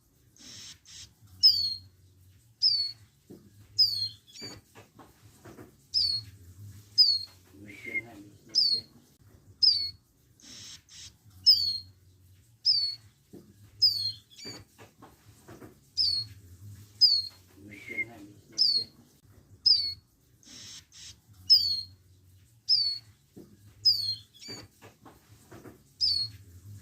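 Young hill prinias (ciblek gunung) calling: short, sharp, falling chirps repeated about once a second, with a few brief rasping bursts in between.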